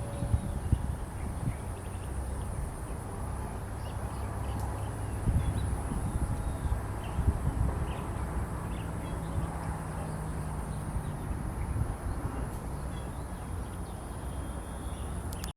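Outdoor ambience in a tropical park: gusty wind rumble on the microphone, a steady high-pitched insect drone, and faint scattered bird chirps.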